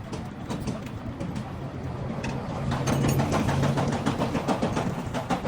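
An engine running with a steady low hum, growing louder about three seconds in with a rapid, even clatter.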